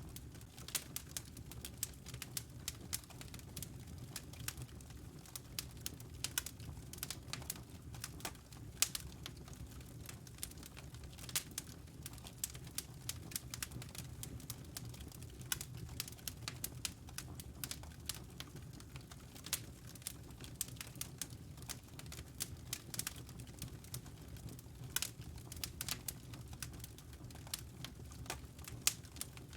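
Fire in a fireplace crackling: irregular sharp pops and snaps, several a second, over a low steady rumble.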